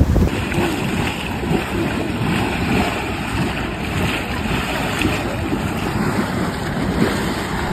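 Wind buffeting the microphone over the steady rush of the sea, heard from a boat.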